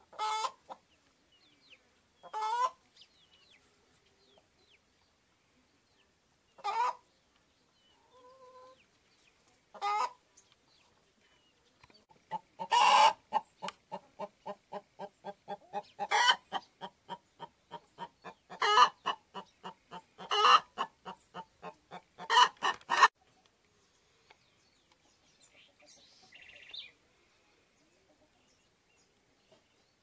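Bird calls: single loud, harsh calls a few seconds apart. Then comes a fast run of short notes, about five a second, with louder calls among them, which stops about 23 seconds in. A faint call follows near the end.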